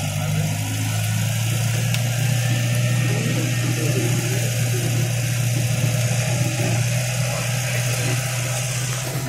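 Mahindra Bolero's diesel engine running steadily while driving, heard from inside the cabin as a constant low drone with road and wind hiss over it.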